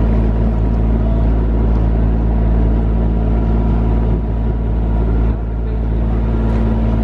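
Tour boat's engine running steadily with a low, even hum, dipping briefly twice near the middle.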